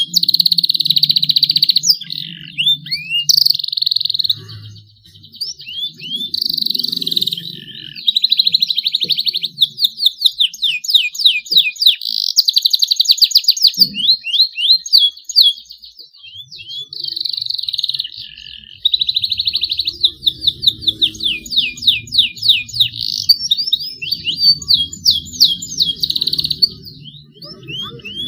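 A juvenile canary, still learning its song, singing continuously in long rolls and trills with rapid runs of downward-sweeping notes. The song breaks off briefly twice, a few seconds in and again about halfway through.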